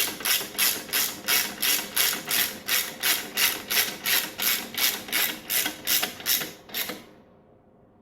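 Ratchet wrench clicking as it tightens bolts, a steady run of about four clicks a second that stops about seven seconds in.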